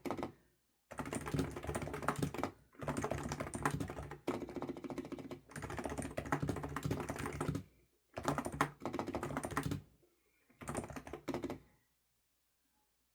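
Typing on a computer keyboard: rapid key clicks in runs of one to two seconds with brief pauses between them. The typing stops about twelve seconds in.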